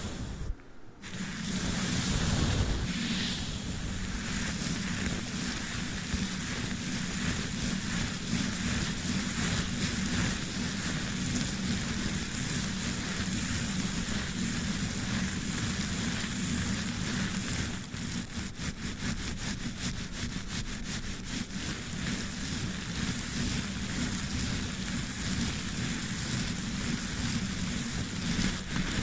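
A brush worked over sticky tape, giving a continuous crackling, sticky scratching. Near the middle it turns into a run of quick, even strokes.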